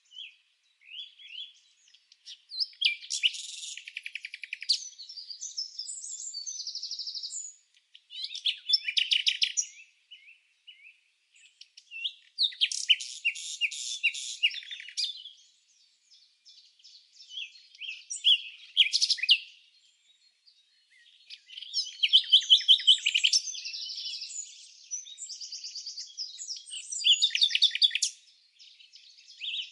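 Birds chirping in bouts of rapid, high-pitched notes and short trills, each lasting a second or a few seconds, with brief pauses between them and no other sound behind them.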